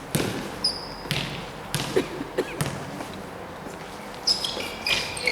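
Basketball game play: a basketball bouncing on the court floor in irregular knocks, with a few short sneaker squeaks.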